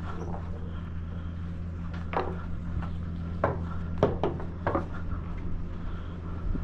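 A truck engine running steadily, with a handful of sharp knocks and rattles between about two and five seconds in.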